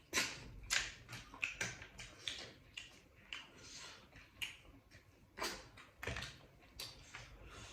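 Eating sounds: irregular chewing and mouth smacks, short wet clicks coming a few times a second.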